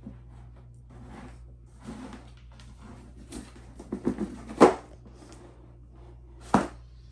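A product box being opened and its packaging handled: faint rustling and scraping with a few soft knocks, and two sharper knocks, the loudest about four and a half seconds in and another about six and a half seconds in.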